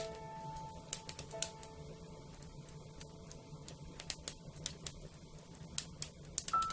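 Wood fire crackling with irregular sharp pops and snaps, over soft background music. A bell-like note fades away over the first few seconds and another starts near the end.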